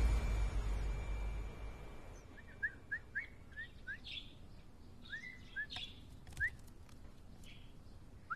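Small birds chirping: about a dozen short rising chirps, two or three a second, coming in bursts after the tail of a music cue fades out over the first two seconds.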